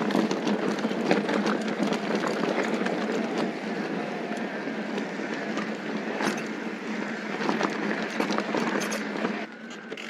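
Mountain bike riding over a dirt fire road: steady tyre rumble on dirt and gravel with rattling and clicking from the bike, dropping off sharply about nine and a half seconds in.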